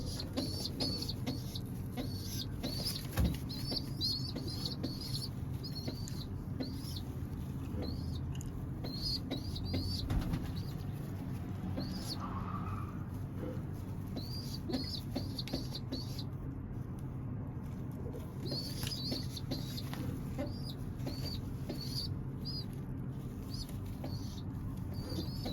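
Pigeon squab peeping: short high chirps in quick runs, stopping briefly about two-thirds of the way through, over a low steady hum.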